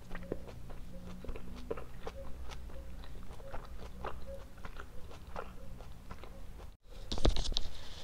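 Close-miked chewing of soft Indian sweets: many small wet clicks and smacks of the mouth. Near the end comes a louder rustle of about a second, as a gulab jamun in its paper cup is picked up.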